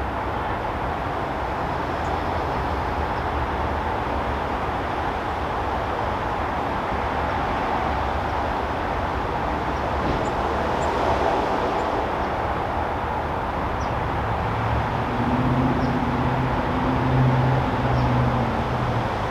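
Steady outdoor background noise like a continuous traffic hum, with a low engine note coming in near the end, likely a vehicle passing.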